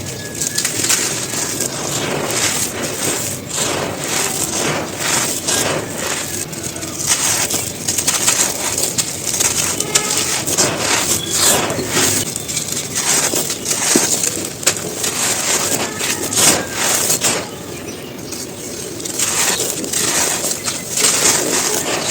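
Dry, gritty cones being crushed and crumbled, a dense irregular run of crunches and crackles that eases briefly about three-quarters of the way through.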